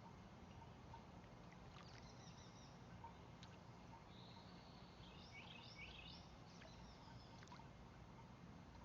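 Faint songbird calls: several short, high-pitched chirping phrases, some sliding up and down in pitch, from about two seconds in until near the end, over a steady low outdoor rumble.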